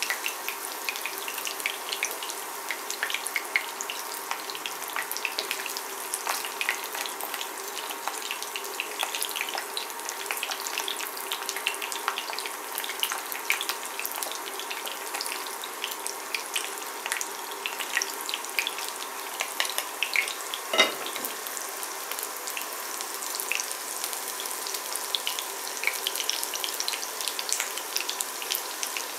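Chicken nuggets frying in vegetable oil in a ceramic pan: steady sizzling with dense crackling pops while wooden flat spatulas turn the pieces. One sharper knock comes about two-thirds of the way through, over a faint steady tone.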